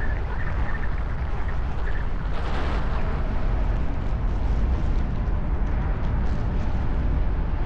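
Fireworks finale barrage heard as a dense, continuous low rumble of distant overlapping bursts, swelling briefly about two and a half seconds in.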